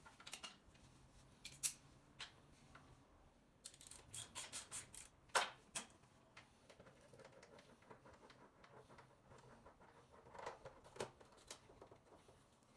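Sharp clicks and light scraping from tools and hardware being handled during a motorcycle muffler fitting, with a quick run of five or six clicks about a third of the way in and a single louder click just after.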